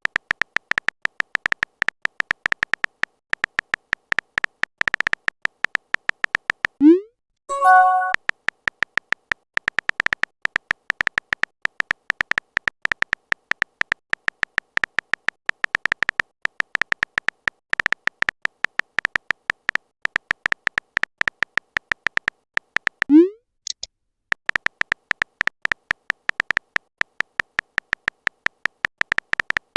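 Rapid clicking sound effect in the style of phone keyboard typing, several clicks a second. It is broken twice, about 7 and 23 seconds in, by a short rising pop like a message-sent sound. The first pop is followed by a brief chime of a few notes.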